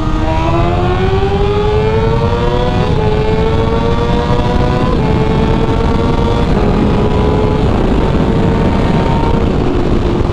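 Motorcycle engine accelerating under the rider, its pitch climbing and then stepping through several gear changes, over heavy wind and road rumble.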